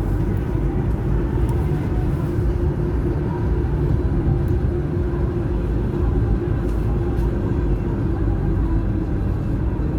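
Car driving, heard from inside the cabin: a steady rumble of engine and tyres with a constant low drone.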